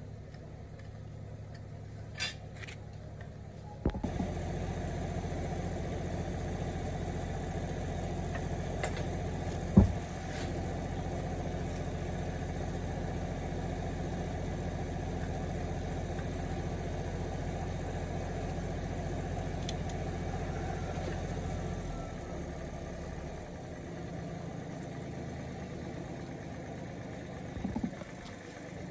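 Old gasoline engine, just rebuilt, running steadily. It picks up sharply about four seconds in, runs louder and steady until it settles back lower near the end, with a sharp click about ten seconds in.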